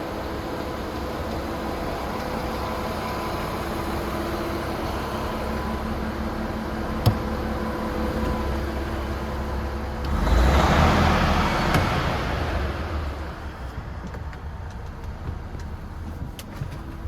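The DAF XF106's Paccar 510 bhp Euro 6 diesel engine idling steadily, with a single click about seven seconds in. About ten seconds in there is a louder rush of noise that fades over two or three seconds, and then it runs quieter with a few light ticks.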